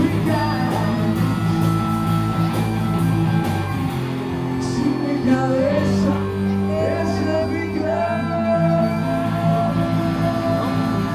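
Live rock band playing, with singing over guitar and bass.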